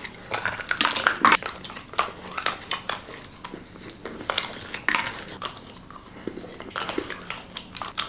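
Close-miked eating of chocolate: an irregular run of sharp clicks and crunches from biting and chewing.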